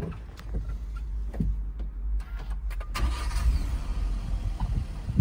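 A few clicks and knocks inside the cab, then about three seconds in the Daihatsu Hijet's 660cc three-cylinder engine starts and runs.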